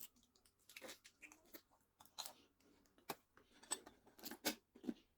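Close-miked eating: bites and chewing of crisp food, heard as a scatter of short crunches and clicks at uneven intervals.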